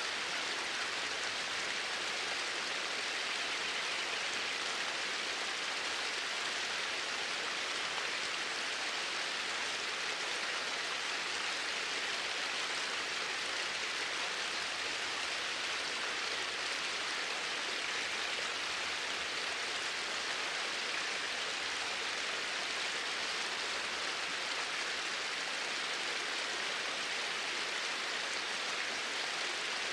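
Flowing water rushing steadily and evenly, with no let-up.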